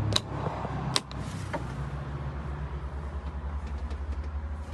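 A Daihatsu Hijet mini truck's small twin-cam 12-valve engine idling with a steady low pulsing hum. Two sharp clicks come near the start, about a second apart.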